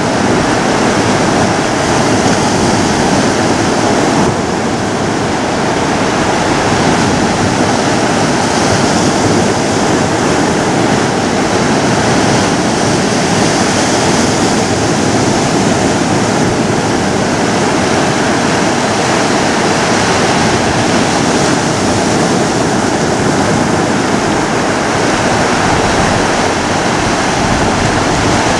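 Ocean surf: waves washing continuously on a shore, a steady rush of water with only gentle swells and no single crash standing out.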